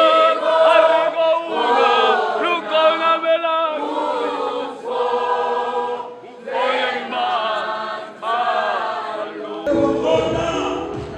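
A choir of voices singing a Christian hymn. Near the end the sound changes abruptly, and a low rumble comes in under the singing.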